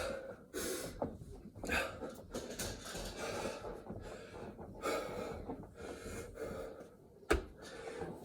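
A man breathing hard and gasping from exertion between burpee reps, with a single sharp thump about seven seconds in.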